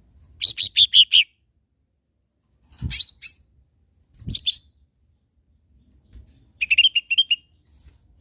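Lesser green leafbird (cucak ijo mini) singing in short bursts of rapid, clear chirps. There is a quick run of about five descending notes, then two short phrases, and near the end a faster trill of about seven notes. A low thud comes with each of the two middle phrases.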